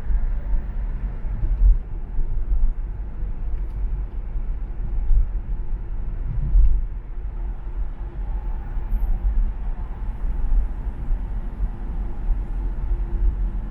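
Car driving on an urban expressway: a steady low rumble of tyres and engine, with uneven, fluttering loudness.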